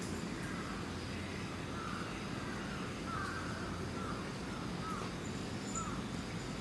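A run of short bird calls, about two a second, starting about two seconds in, over a steady low outdoor background rumble.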